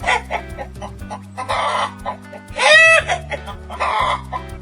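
Hen clucking in several short bursts, the loudest a drawn-out pitched squawk a little past halfway, over cheerful background music.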